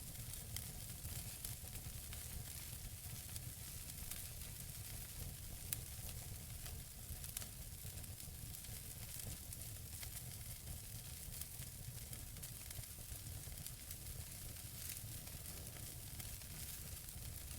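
Logs burning in a wood fireplace: a steady hiss with light crackling and a low rumble underneath, and two louder pops about six and seven and a half seconds in.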